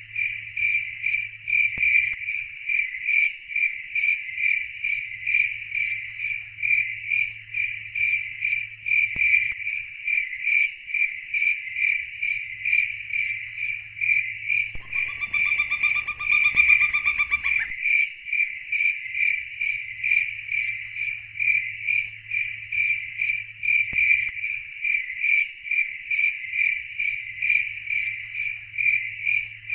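High-pitched insect chirping, repeating in rapid even pulses throughout. About halfway through, a different pitched call is heard for two or three seconds. A faint low hum comes and goes underneath.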